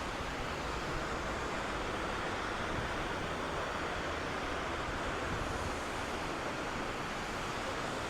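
Steady rush of flowing water from a mountain stream and waterfall.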